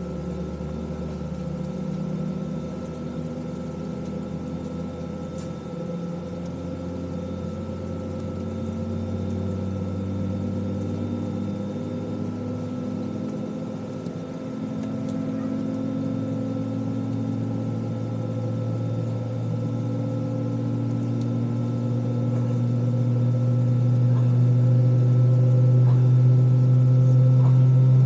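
Airbus A320 jet engines heard from inside the passenger cabin: a steady drone with a low hum that rises slightly in pitch and grows louder over the last third.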